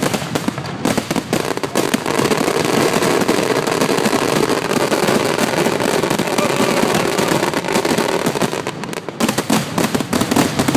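Fireworks finale barrage: rapid overlapping bangs and crackles. From about two seconds in they merge into one continuous wall of noise, then break back into separate bangs near the end.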